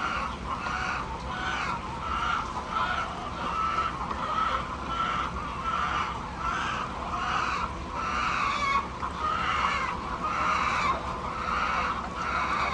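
Chickens calling in a steady run of repeated squawking notes, about three every two seconds, over a constant low background hum.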